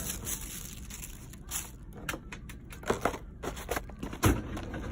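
Handling noises: rustling with scattered light clicks and knocks, and one sharper knock about four seconds in.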